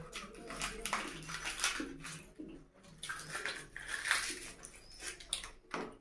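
Close-miked wet chewing and smacking of a mouthful of puri and egg curry, in irregular crackly bursts, along with the soft tearing of a fried puri by hand.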